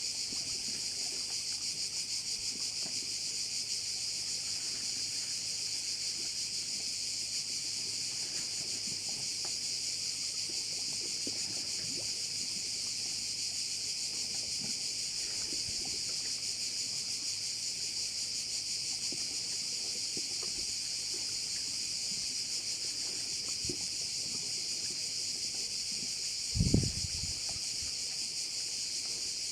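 Steady, unbroken high-pitched chorus of crickets chirring. Near the end there is one brief low thump.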